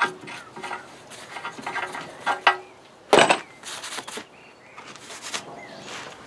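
Workshop handling noises around cast iron parts: scattered light clicks and taps, one sharp knock about three seconds in, then brief scraping rubs.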